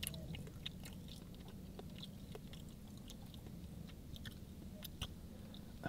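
A person chewing noodles close to the microphone: faint wet mouth clicks at an uneven pace, over a low steady hum.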